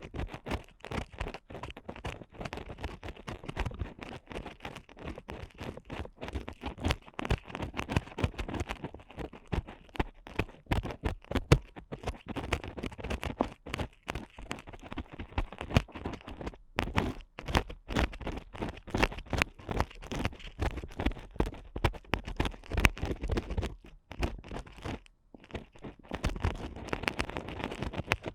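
Ear pick scraping and scratching inside a microphone's ear canal: a dense, crackly run of quick scratches and clicks, close and strong, with a brief lull a few seconds before the end.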